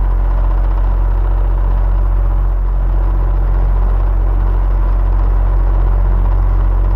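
Electric fan running steadily: a constant low motor hum under an even rush of air, with a faint steady tone above it.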